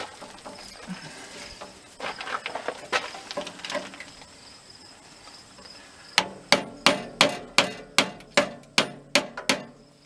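Hammer blows knocking the old glued-on rope gasket off an outdoor furnace door, which is stubborn and tough going. Lighter tapping and scraping comes first, then about a dozen quick, sharp strikes in the last few seconds.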